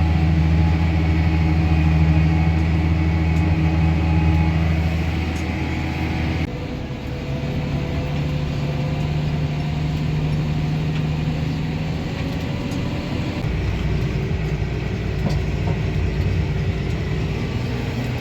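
Farm tractor engine running steadily while pulling a manure spreader, a low drone whose note drops and shifts about six and a half seconds in.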